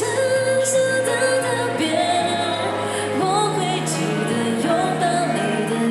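Mandarin pop ballad sung by a female singer over its accompaniment, her held notes wavering with vibrato.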